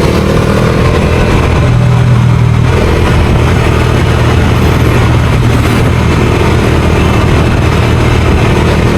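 Bajaj Dominar 250's single-cylinder engine running steadily under way, its pitch shifting slightly a couple of seconds in, over steady wind noise from riding.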